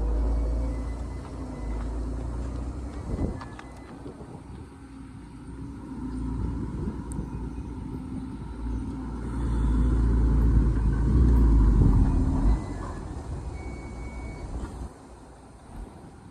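Heavy construction machine's diesel engine running with a deep, steady rumble, swelling louder for a few seconds past the middle and easing off near the end.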